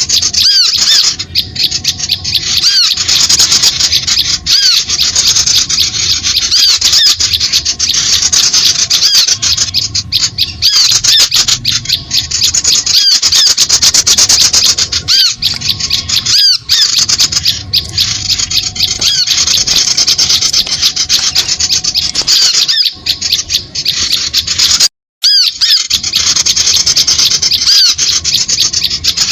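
Bird-lure recording of small birds: dense, rapid high-pitched chirping and chattering, repeated without pause. The sound drops out briefly about 25 seconds in.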